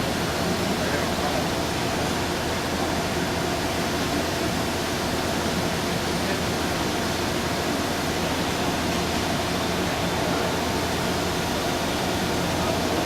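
Royal Master TG-12x8 centerless grinder running steadily in thrufeed grinding, a constant rushing noise with a faint hum.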